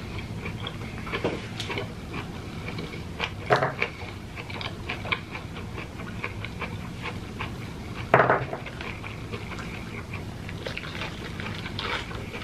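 Close-up chewing of jackfruit: wet mouth clicks and smacks, with two louder bursts about three and a half and eight seconds in.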